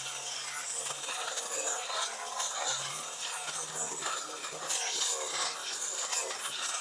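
Dry brush and branches rustling, crackling and scraping as tangled overgrowth is pulled and cleared, with a faint low hum twice.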